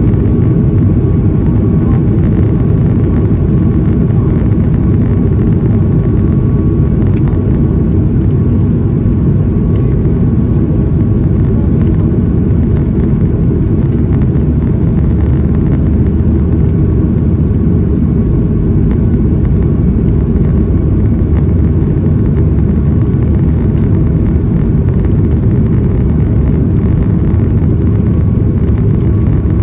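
Boeing 737 MAX 8 cabin noise heard from a window seat: steady jet engine and airflow noise, deep and even, with a faint steady whine above it.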